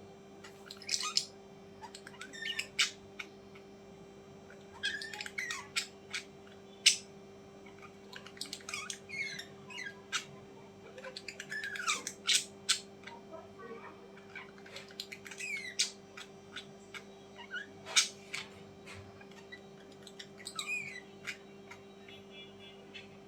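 Birds squawking and chirping in short, irregular calls, some gliding in pitch, with a few sharp clicks, over a steady electrical hum.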